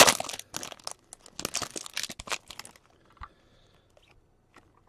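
A trading card pack's wrapper being torn open and crinkled: a dense crackling run that stops about three seconds in, followed by a few faint clicks.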